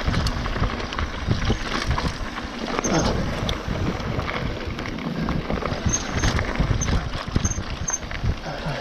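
Mountain bike rolling downhill over a loose, rocky trail: a steady rush of tyre and wind noise with many small knocks and rattles from the bike as it rides over the rocks.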